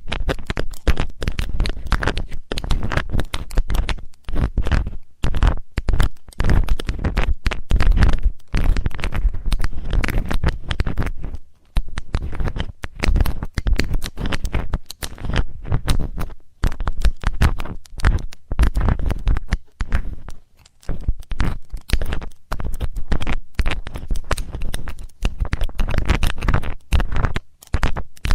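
ASMR ear cleaning close on a binaural microphone: irregular scratching and scraping inside the mic's ear, in quick clusters with short pauses, with a heavy rumble from contact with the mic.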